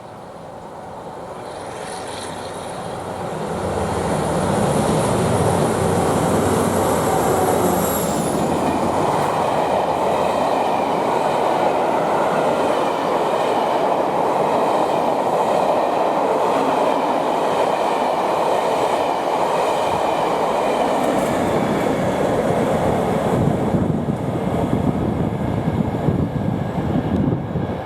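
A train approaching and passing close by: the sound builds over the first few seconds, with a faint high whine that drops in pitch about eight seconds in, then the steady loud rumble and wheel noise of the train going by.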